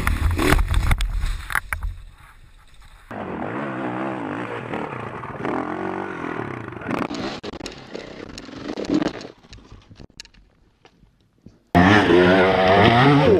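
Dirt bike engines running and revving in several short cuts, the pitch wavering up and down with the throttle. Knocks and clatter in the first two seconds; a loud engine starts abruptly near the end after a near-quiet gap.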